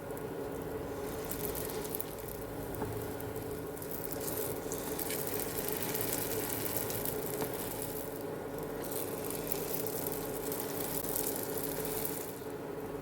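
Hotteok frying in oil in a pan, sizzling and crackling; the sizzle swells and eases back, dropping off near the end, over a steady low hum.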